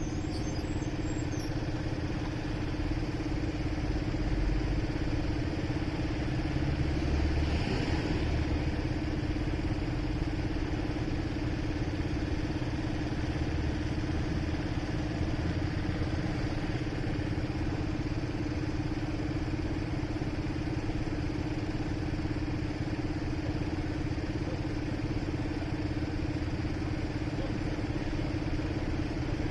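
Motorcycle engine idling steadily, its pitch holding constant without revving.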